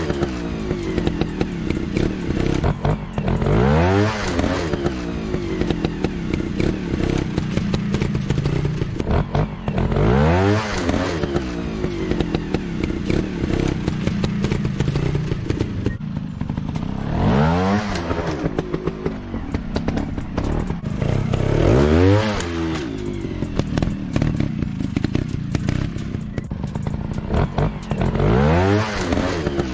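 Small dirt-bike engine running steadily and revving up and back down about six times, with a light clatter beneath.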